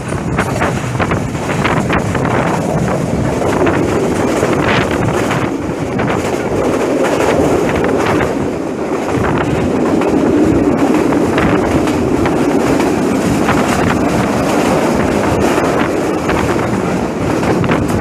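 Passenger train running along the track: a steady rumble of the wheels on the rails with occasional clicks, and wind rushing over the microphone held out of the window.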